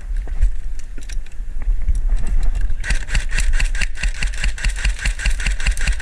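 Airsoft gun firing a long full-auto burst, a rapid even stream of clicks at about a dozen a second, starting about three seconds in. It is preceded by scattered single shots, with a low rumble on the microphone throughout.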